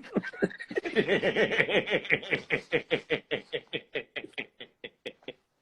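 A person laughing hard: a long run of quick, rhythmic laugh pulses that thin out and fade near the end.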